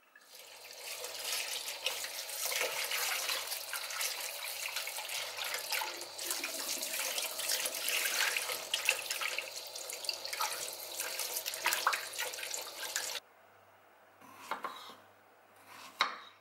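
Kitchen tap running into a bowl while strawberries are rinsed and rubbed by hand; the water cuts off abruptly about 13 seconds in. Near the end, a few knife cuts through strawberries onto a wooden cutting board.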